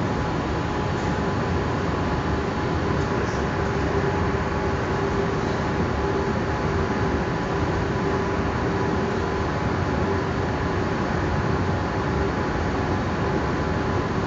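Electric city train running at speed, heard from inside the carriage: a steady rumble of wheels and running gear with an even, held tone running through it.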